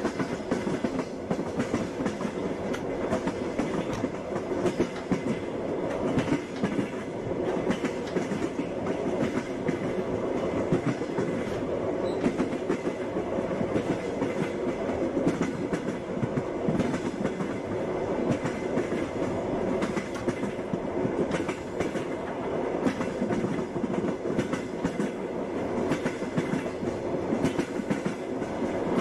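Wheels of a moving passenger train clattering along the rails: a steady rumble with a constant run of sharp clicks and knocks.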